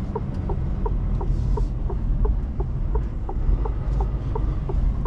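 Inside a Mercedes Actros truck cab: the diesel engine runs with a steady low rumble while the turn-signal indicator ticks evenly, about three clicks a second.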